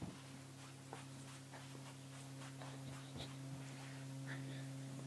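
Faint, steady low electrical hum, with soft scattered clicks and rustles over it.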